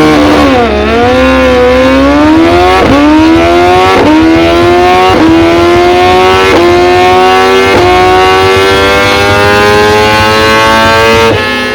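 BMW S1000 superbike's inline-four engine on a dyno pull, revving hard at full throttle and running up through the gears: the pitch climbs steadily with about five quick upshifts, each a brief dip in pitch with a click. Near the end the revs drop as the throttle is closed.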